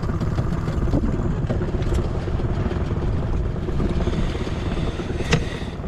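Strong wind buffeting the microphone in a low, gusty rumble, with a short sharp knock near the end.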